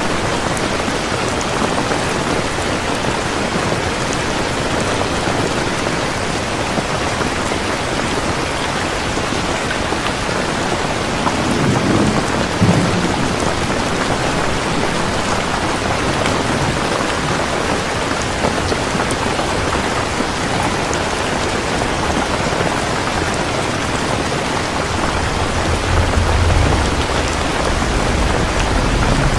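Heavy rain falling steadily, with a short low rumble of thunder about twelve seconds in and a longer low rumble of thunder in the last few seconds.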